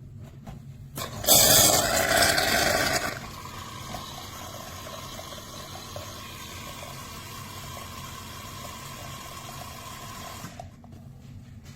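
De'Longhi Rivelia automatic espresso machine's milk frother dispensing foamed milk. A loud burst of hissing starts about a second in, then after about two seconds it settles into a steadier, quieter hiss and gurgle of milk being frothed, which stops shortly before the end.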